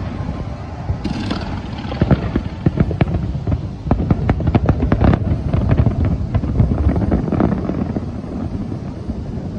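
A fireworks display: a dense volley of bangs and crackling bursts over a low rumble, thinning out and getting quieter over the last couple of seconds.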